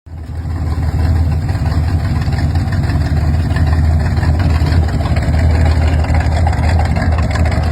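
A car engine running steadily with a loud, deep rumble, fading in during the first second.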